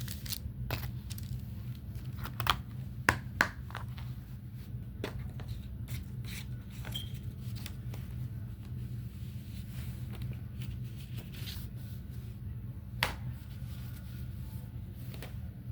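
Plastic DVD and Blu-ray cases being handled, with light rustling and sharp clicks of the cases, several close together about three seconds in and one near the end, over a steady low hum.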